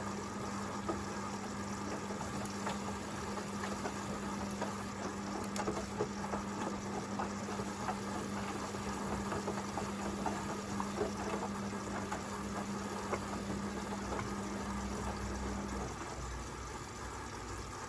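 Hoover VisionDynamic front-loading washing machine tumbling a small load in its rinse: a steady motor hum with water sloshing and soft knocks of the load. The drum motor stops near the end, leaving a lower hum.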